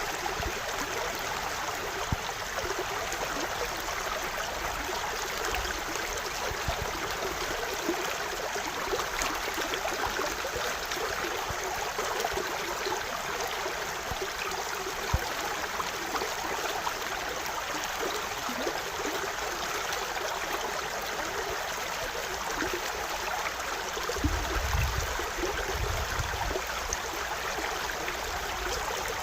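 A stream of water flowing and babbling steadily, with a brief low rumble near the end.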